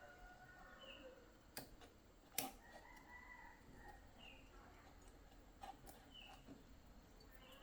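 Faint rooster crowing, one drawn-out call a few seconds in, with a few short high bird chirps. Two sharp clicks sound about one and a half and two and a half seconds in; the second is the loudest sound.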